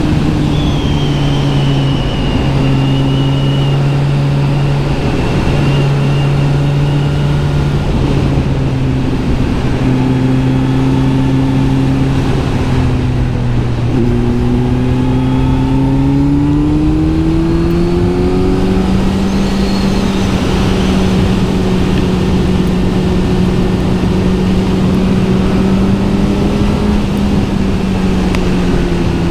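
Kawasaki Z900 SE's inline-four running through an SC-Project S1 aftermarket exhaust while riding. The engine note holds steady, steps up and climbs about halfway through, holds at the higher pitch, then eases down near the end.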